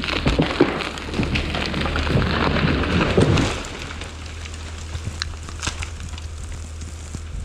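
Tamarack tree crashing down through the surrounding branches, a dense crackle and splintering of snapping wood that builds and then cuts off about three and a half seconds in, followed by a few scattered snaps. A steady low hum runs underneath.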